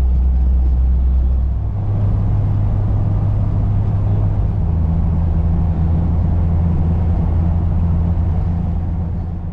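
Car driving at highway speed: a steady low engine drone with road and tyre noise, the engine's pitch stepping to a new level twice.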